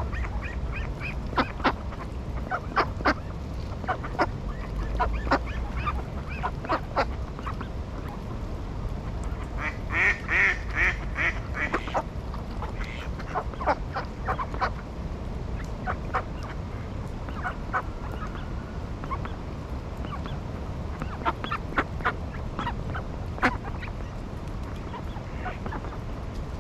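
Ducks calling with short, scattered calls, then a loud run of about five quick calls about ten seconds in, over a steady low rumble.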